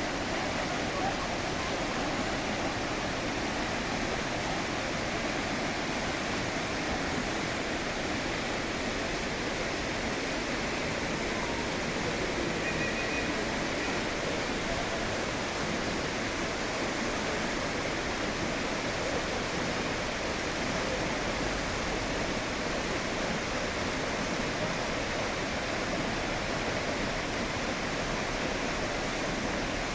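Waterfall and rushing stream water, a steady, even rush with no let-up.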